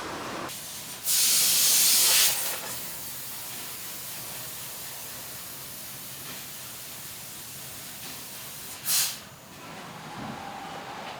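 Hissing gas jets from a fibre laser cutting machine. A loud blast of about a second comes early, then a steady lower hiss, then a second short blast near the end.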